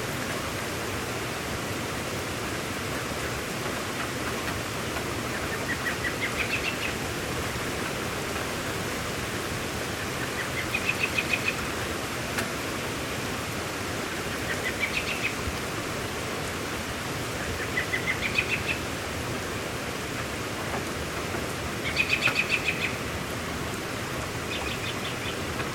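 Steady rain hiss, with a bird singing a short, rapid trill that rises in pitch, six times at intervals of three to four seconds; the fifth phrase is the loudest.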